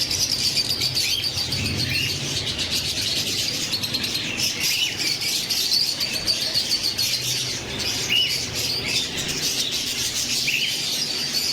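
Many caged birds, parrots among them, chirping and chattering at once in a dense, continuous chorus of rapid high chirps, with short rising calls every few seconds.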